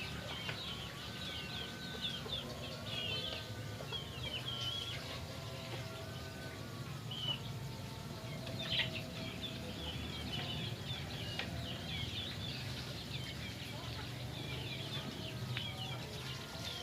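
Chickens clucking, with many small birds chirping busily.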